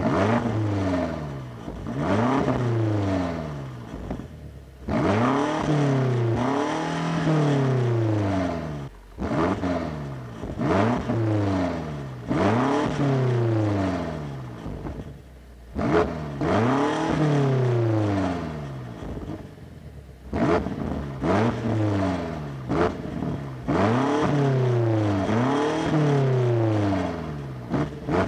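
BMW M8 Competition's 4.4-litre twin-turbo V8 accelerating hard through the gears in several separate runs, the engine note climbing and falling back at each upshift.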